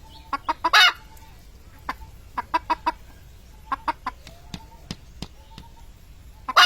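Chicken clucking in short calls, mixed with irregular sharp taps and knocks as it attacks its own shadow; the loudest bursts come about a second in and at the very end.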